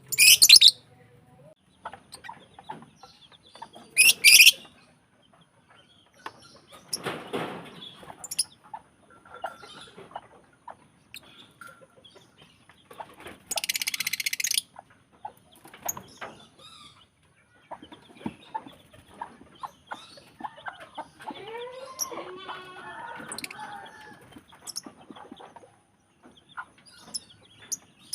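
Lovebirds giving shrill, screechy calls in short bursts, loudest near the start, about four seconds in and about halfway, with small clicks and scratches in between. A lower, wavering call comes about three quarters of the way through.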